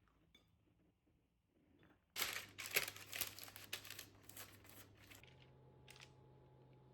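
Crinkling rustle of packaging being handled, starting about two seconds in and dying down after about three seconds. Under it runs a steady low hum that shifts in pitch about five seconds in.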